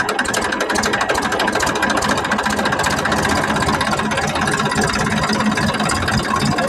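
An engine running steadily at an even idle, with a fast regular pulse.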